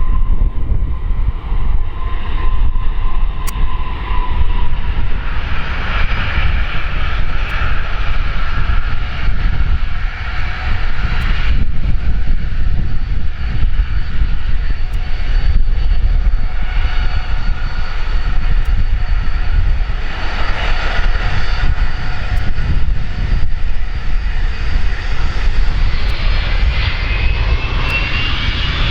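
Aircraft engines running as the plane taxis, a heavy rumble under a whine of several tones that swells and fades. Near the end the whine rises in pitch.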